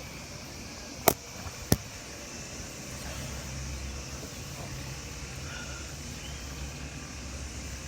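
Two sharp knocks about half a second apart, about a second in, as the phone recording is set down, then a steady low background rumble and hiss.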